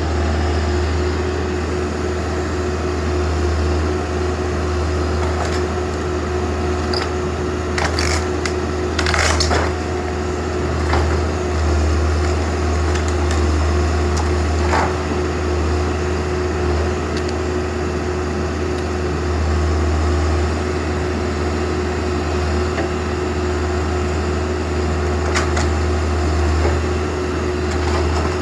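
Backhoe engine running steadily under load while it tears into a wooden garage, with several sharp cracks and splintering of timber breaking, most of them together about a third of the way in and a couple more near the end.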